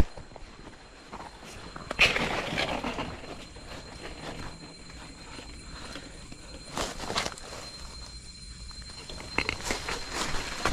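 Footsteps crunching through jungle leaf litter, a few irregular steps and scuffs, with a steady high tone in the background.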